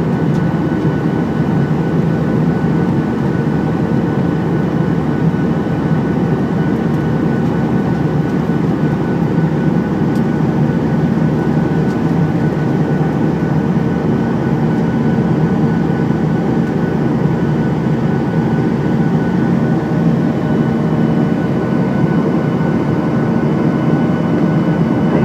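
Aeroplane cabin noise in flight: the engines and airflow make a steady, unbroken low drone with a few faint constant tones over it.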